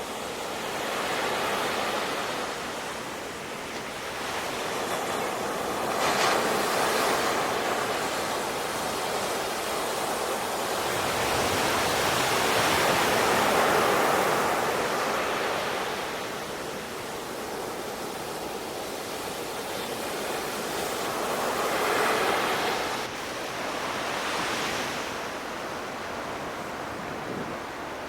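Sea waves washing onto the shore, the surf swelling and ebbing every few seconds.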